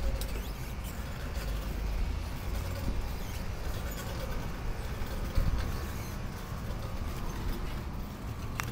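Steady low rumble of city street traffic, with a few light clicks and one thump about five and a half seconds in.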